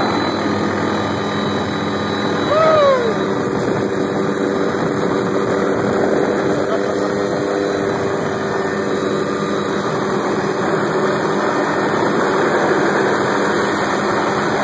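Helicopter running steadily, an even engine and rotor drone with several steady low hums. A short falling tone sounds about three seconds in.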